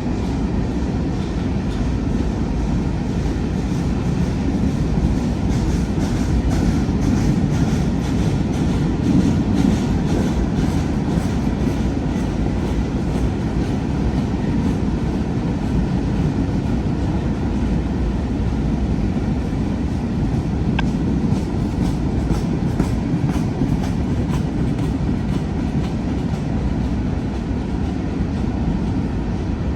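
Freight cars of a long train rolling past: a steady rumble of steel wheels on the rails, with a clickety-clack of wheels over rail joints.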